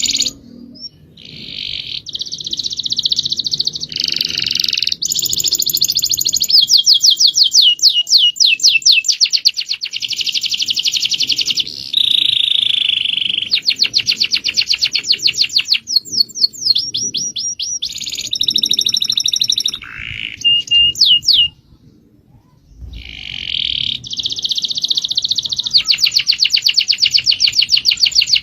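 Songbird singing loud, rapid high-pitched trills and buzzy phrases in long runs, breaking off briefly about 22 seconds in before starting again.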